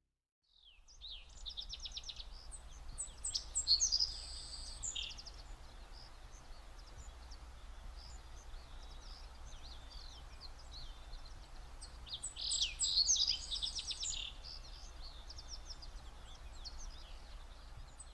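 Birds singing and chirping over a steady low rumble, with two louder bouts of song about three and about twelve seconds in.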